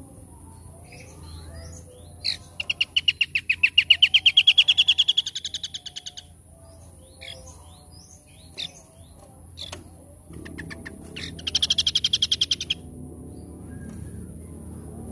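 A small songbird singing a fast trill of rapidly repeated notes, about seven a second, rising slightly in pitch over roughly four seconds, with scattered short chirps after it and a second, shorter trill near the end.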